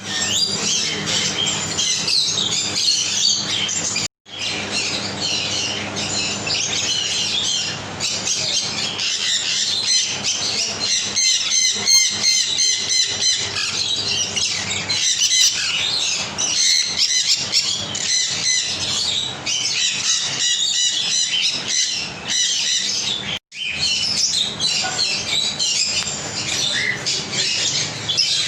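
A flock of caged parrots chattering: many overlapping high squawks and chirps, loud and continuous, broken by two brief cuts to silence, about four seconds in and near the end.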